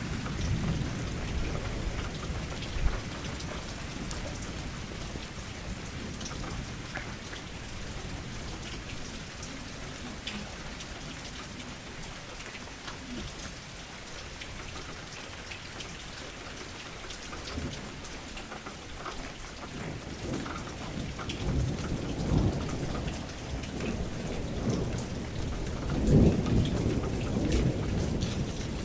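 Steady rain with scattered drops pattering, and thunder rumbling low several times, the loudest roll coming near the end.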